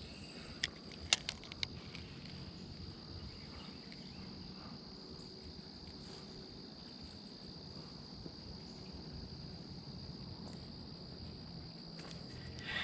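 Crickets singing in a steady high-pitched chorus, with four sharp clicks in the first two seconds, louder than the chorus.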